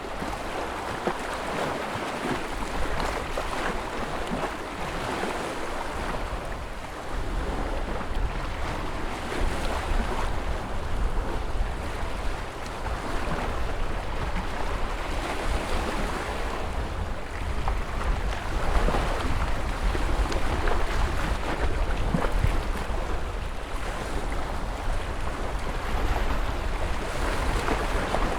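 Ocean surf washing continuously, rising and falling in swells every few seconds. A low rumble runs underneath from about seven seconds in.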